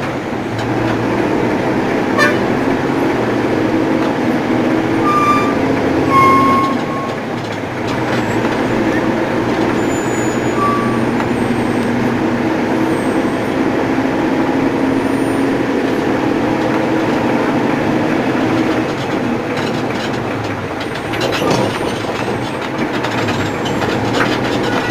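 Heavy truck running steadily with a constant engine hum, with a few short high toots about five to eleven seconds in.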